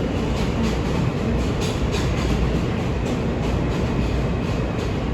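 New York City J subway train running between stations, heard from inside the car: a steady, loud rumble with faint clicks repeating from the wheels on the rails.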